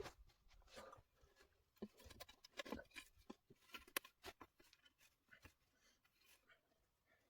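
Faint, irregular small clicks and rustles that thin out over the last two seconds.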